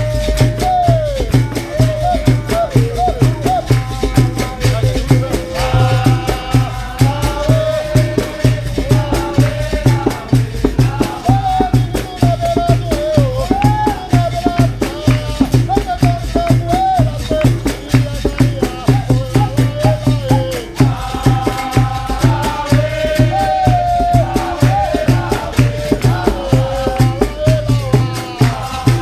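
Live capoeira roda music: a voice singing a bending melody over a steady percussion rhythm of berimbau with its caxixi shaker rattle, pandeiro and atabaque drum. A fuller group chorus joins in about six seconds in and again near twenty-two seconds.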